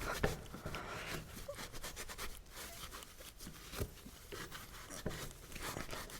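Faint rubbing and scraping of debris being wiped off a motorcycle side stand, with light scattered clicks and taps.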